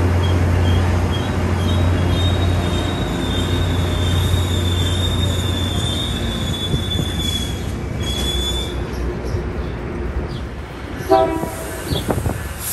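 Tri-Rail commuter train with a diesel locomotive pulling slowly away, its engine a steady low drone. A thin, high wheel squeal runs for most of the time and stops a few seconds before the end. Near the end comes one short, pitched toot.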